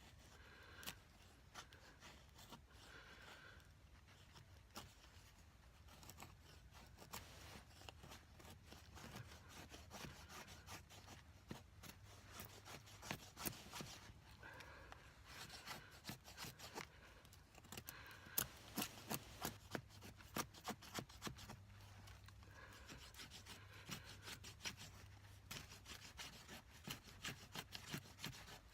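Knife blade scraping and shaving a dry stick into fine tinder: faint, irregular short scrapes that come thicker and louder about halfway through.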